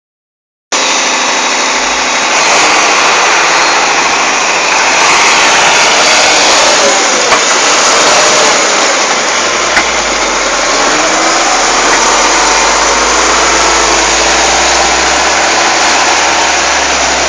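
Vehicle engine running loud and steady, with a dense noisy sound that starts abruptly just under a second in and carries on without a break.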